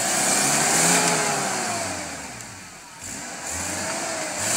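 Small 4x4's engine revving up and down while the vehicle is bogged in mud and water. It peaks about a second in, drops off, then picks up again near the end. The clutch has gone, according to those watching.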